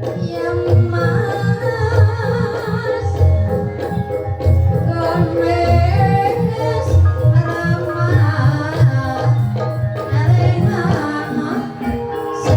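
Banyumas ebeg gamelan music: deep hand-drum strokes and tuned percussion under a wavering sung vocal line, playing on steadily.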